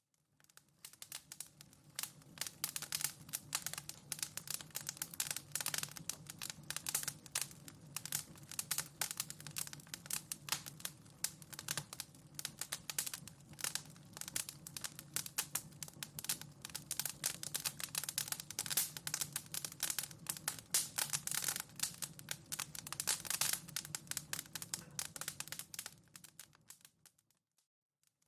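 Wood fire crackling in a fireplace: dense, irregular pops and snaps over a low, steady rumble. It fades in just after the start and fades out shortly before the end.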